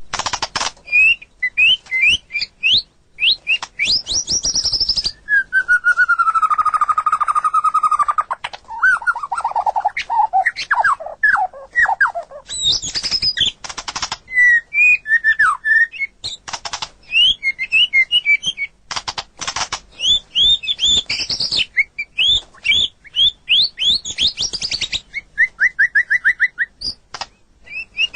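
White-rumped shama singing a long, varied song: quick runs of sharp chirps, whistled glides and fast trills, phrase after phrase with short pauses between.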